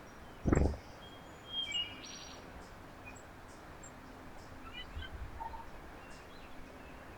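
Small birds chirping at a backyard feeder with short high calls, a few at a time, over a steady outdoor background. A loud low thump comes about half a second in.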